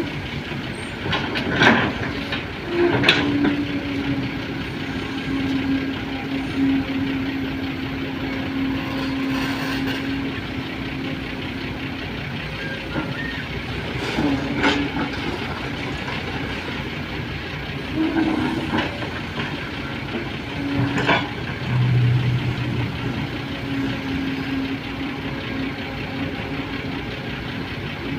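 Heavy vehicle noise: a steady engine drone that drops away and returns, with a few sharp clanks.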